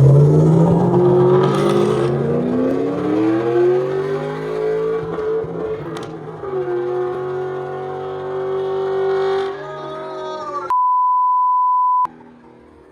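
A 2006 Ford Mustang GT's 4.6-litre V8 pulling hard under acceleration, its pitch climbing for about five seconds, then holding steady before dropping away. Near the end a steady one-second beep tone cuts in with all other sound blanked out, a censor bleep.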